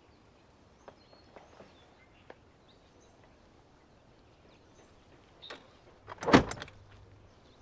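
Faint bird chirps and a few light clicks, then one loud bang about six seconds in: a car door being shut.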